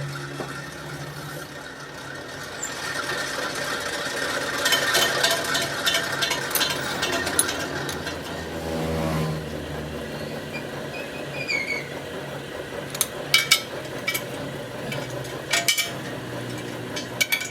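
Workshop metalwork on a steel truck rim: a machine hums and clatters, its pitch sliding down about halfway through. Sharp metal knocks follow in the second half.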